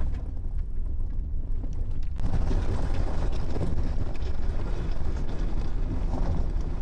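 Wind buffeting the microphone: a steady, gusting low rumble that grows fuller and hissier about two seconds in.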